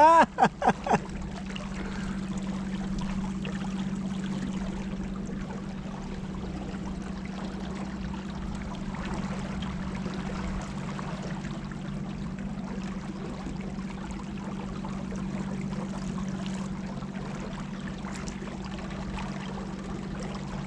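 Boat motor running with a steady, even hum, over water rushing and splashing past the hull.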